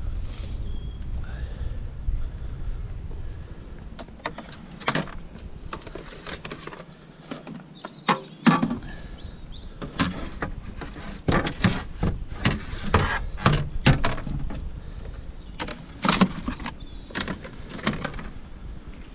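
Repeated clattering knocks and scrapes of junk items being handled and loaded, thickest about ten to fourteen seconds in.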